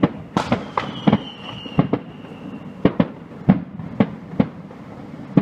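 Fireworks display: an irregular string of sharp bangs, roughly two or three a second, each with a short echoing tail, and a high whistle, falling slightly in pitch, that sounds for over a second starting about a second in.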